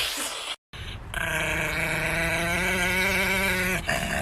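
An animal's long, drawn-out call held for about two and a half seconds with a slightly wavering pitch, starting after a brief cut to silence, and a short second call near the end.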